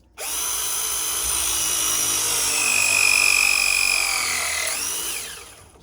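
Cordless power tool motor running for about five seconds with a steady high whine. Its pitch sags slightly as it works, dips and rises briefly near the end, then winds down.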